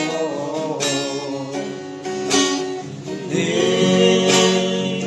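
Acoustic guitar strummed in a steady rhythm, with a voice singing held notes over it.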